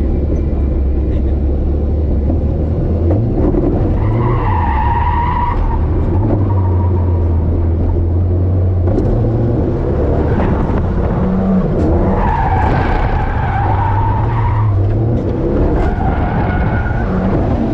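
A drift car's engine held at high revs, its pitch stepping up and down, while the tyres squeal in several long screeches: about four seconds in, again for about three seconds from twelve seconds in, and near the end.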